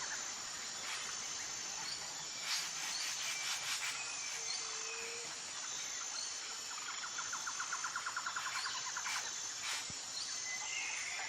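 Outdoor nature ambience of birds and insects: a steady high-pitched insect buzz, a rapid trill about seven seconds in that lasts a couple of seconds, a short low whistle about four and a half seconds in, and a few scattered chirps.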